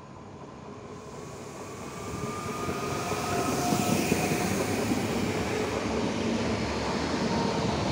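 ED78 electric multiple unit coming in along the track, growing louder over the first four seconds and then running loud and close by, with the rumble of wheels on rail and a faint whine.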